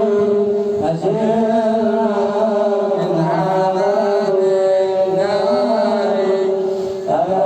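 A male voice chanting an Arabic devotional nasheed (madih) in long held notes with melodic ornaments, over steady held tones.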